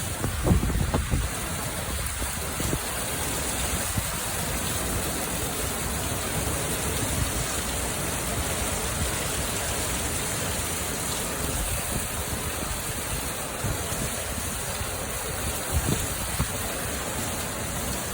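Hurricane wind and rain: a steady noise of heavy rain and wind, with gusts buffeting the microphone about half a second in and again near the end.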